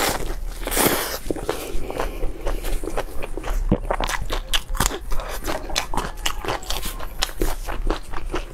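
Close-miked biting and chewing of a large flatbread stuffed with diced meat and green peppers: a steady run of short crunches and wet mouth clicks.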